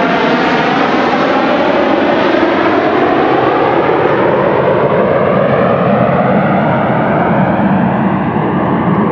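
Loud, steady engine noise of an airplane flying past low overhead, with a sweeping whoosh as it passes; the sound grows duller toward the end as it moves away.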